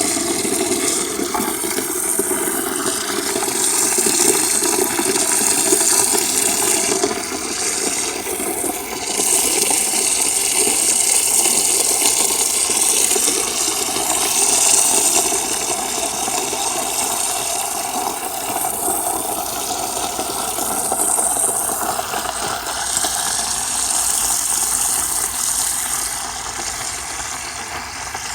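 Stream water pouring steadily into an earthenware crock as it fills, with a continuous splashing whose tone shifts slightly over time.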